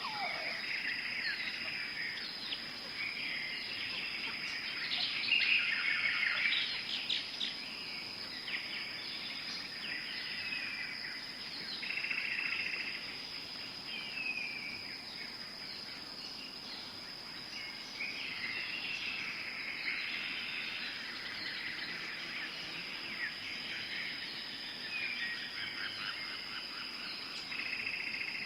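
Tropical forest ambience: many birds calling and chirping, some notes sliding down in pitch, over a steady high-pitched insect drone.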